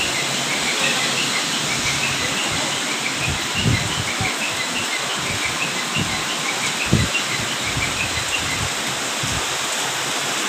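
Steady hiss of heavy rain, with a small bird chirping over and over through most of it. Two brief low thuds, about three and a half and seven seconds in.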